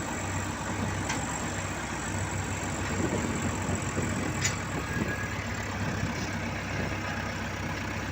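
A heavy vehicle's engine running steadily at low revs, with a faint click about four and a half seconds in.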